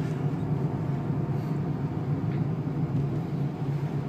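Inside the cabin of a Renault car with a 2.0-litre turbo diesel, driven slowly on a wet track: a steady low engine and road drone that does not rise or fall.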